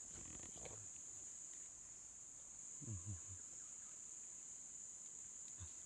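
Steady, high-pitched chorus of insects, with a few soft low thumps about halfway through.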